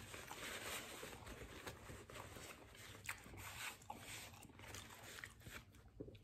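Faint chewing of a mouthful of burrito, with small scattered mouth clicks, and soft rustling of a paper napkin wiped across the face.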